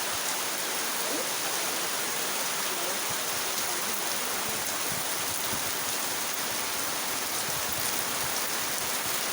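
Heavy rain pouring steadily, with rainwater gushing through gutters and along the road.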